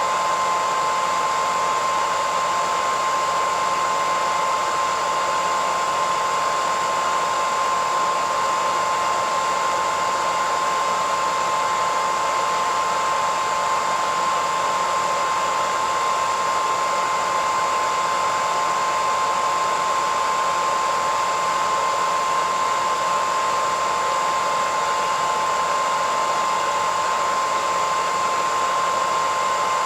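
Hairdryer running steadily at constant speed: an even blowing hiss with a steady high whine from its motor and fan.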